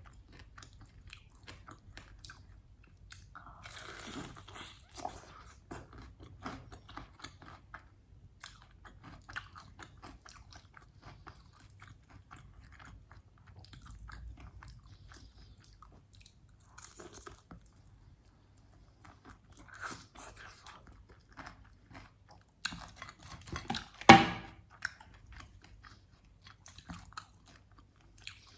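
Close-miked chewing and crunching of crispy fried chicken wings: many small crackles of the breaded skin, with a burst of louder crunchy bites about four seconds in and the loudest crunch about 24 seconds in.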